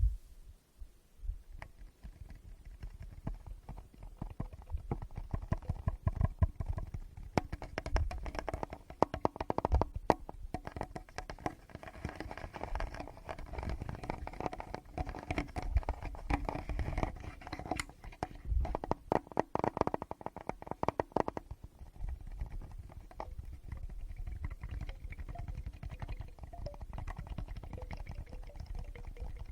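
Fingers tapping, rubbing and scratching directly on a Tascam recorder's microphones: dense crackly taps over low thumps and rumble from the handling. The touching is busiest through the middle and softer and more even near the end.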